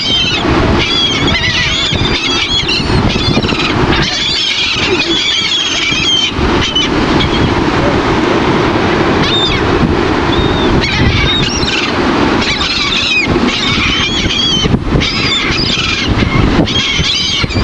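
A flock of seagulls calling, many short high squealing cries overlapping in bunches that come and go every few seconds, over a steady low rush of wind and surf.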